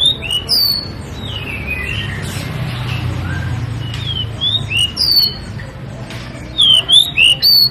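Pied bushchat singing in three short bursts of quick, swept whistled notes: one at the start, one about four and a half seconds in, and one near the end.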